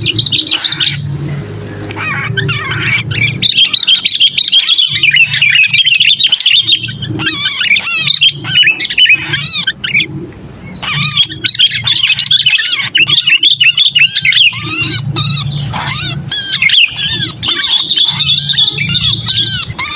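Sooty-headed bulbul (kutilang) distress calls, the 'kejepit' cry of a bird that is caught or pinned, used as a lure for wild bulbuls: dense bursts of fast, high chirps with short pauses about a second in and near the middle, over a low steady hum.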